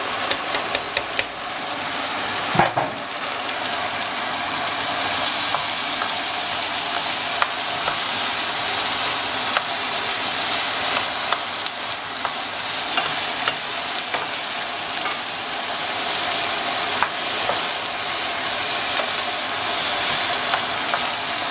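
Broccoli, onions and tomato paste sizzling in oil in a frying pan while being stirred with a spatula, a steady hiss with a few light knocks of the spatula against the pan.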